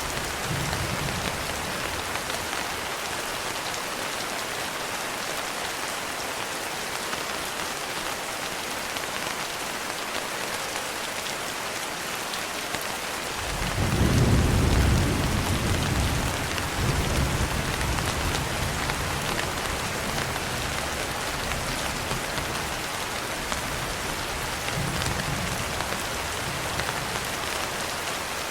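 Steady rain falling, with a roll of thunder about halfway through that swells and rumbles on for several seconds, and fainter thunder rumbles near the start and near the end.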